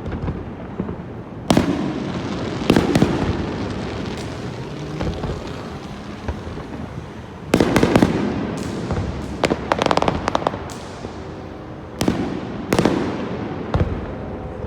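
Aerial fireworks shells bursting overhead: single sharp booms and quick clusters of bangs, with a stretch of crackling partway through, and rumbling echoes filling the gaps between bursts.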